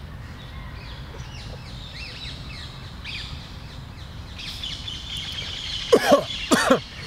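Birds chirping in the trees, short faint chirps at first, then a steady high trilling from about halfway. Near the end come two loud, harsh sounds less than a second apart.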